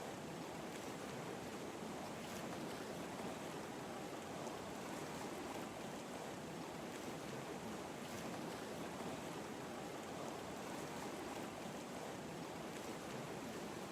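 Recorded ocean waves as a sleep soundscape: a soft, steady wash of surf with no distinct breaking swells.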